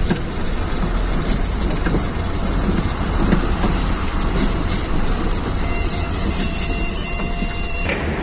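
A heavy vehicle's engine running steadily, with a thin high whine added from about six seconds in that cuts off shortly before the end.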